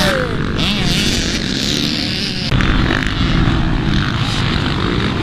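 Dirt bike engines running on a motocross track, with one engine's pitch falling in the first second. The sound shifts abruptly about two and a half seconds in.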